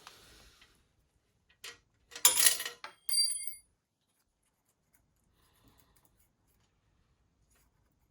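Small metal parts handled on a hard surface: a loud clatter about two seconds in, followed by a brief metallic ring, as of a metal piece set down or dropped, with light handling noise around it.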